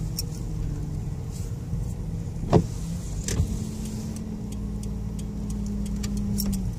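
Car moving slowly, heard from inside the cabin: a steady low engine and road hum, with a sharp knock about two and a half seconds in and faint scattered ticks. A steady higher hum joins a little after three seconds and stops shortly before the end.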